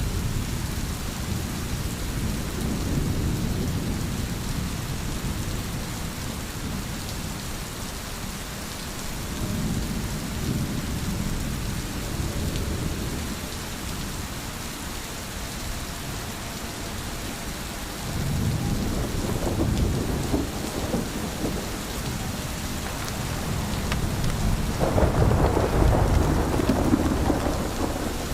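Steady heavy rain with rolling thunder that swells and fades several times, the loudest and longest rumble near the end.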